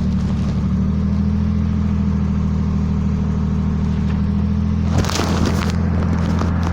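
Mercedes-Benz 1313 truck's six-cylinder diesel engine running steadily while it powers the truck-mounted crane, with a sudden knock and a short clatter about five seconds in.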